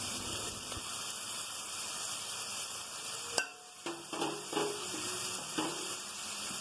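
Snake gourd frying in mustard oil in a kadai, sizzling steadily as ground poppy seed paste is added on top. About halfway there is a sharp knock, then a few short scrapes of a spatula stirring in the pan.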